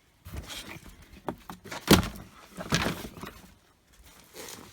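Freshly dug sweet potatoes being put into a box: a few knocks and scrapes, the loudest about two seconds in.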